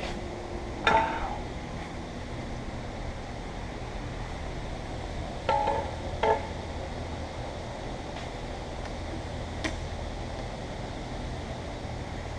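Metal parts knocking together in sharp clinks with a short ring: one about a second in, two close together in the middle, and a fainter one later. Under them runs a steady low hum.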